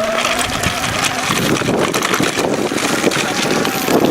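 E-bike front hub motor whining under pedal assist, its pitch rising as the bike speeds up, with the welded clutch holding the drive. After about a second the whine is mostly covered by wind buffeting the microphone and bumpy road rumble.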